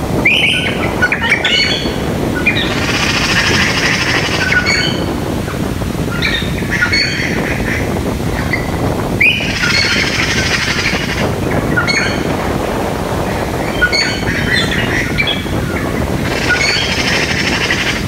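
Birds calling over a steady low rushing background: a dense, rattling burst of calls returns about every six to seven seconds, with short chirps in between.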